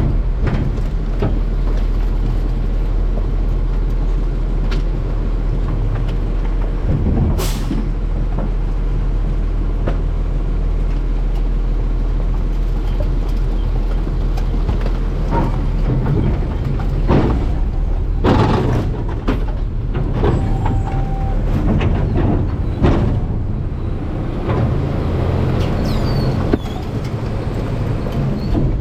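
Garbage truck's diesel engine running with a steady low drone, with scattered metallic knocks and clanks: a sharp one about seven seconds in, a cluster about two-thirds of the way through, and another a few seconds later.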